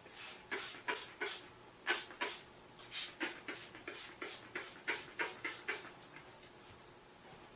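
Hand-pump spray bottle misting water onto roses: a quick run of about eighteen short hisses, one per squeeze of the trigger, in bunches over the first six seconds.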